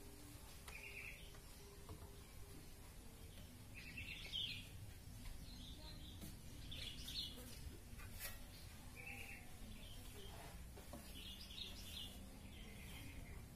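Faint short bird chirps, repeating every couple of seconds over low steady background noise.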